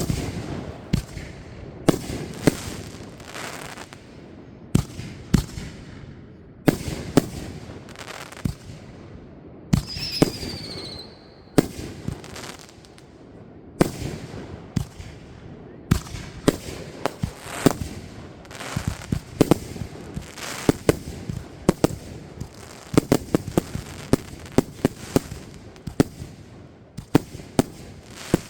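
Fireworks going off in quick succession: sharp bangs and crackling bursts throughout, with a short whistle falling in pitch about ten seconds in.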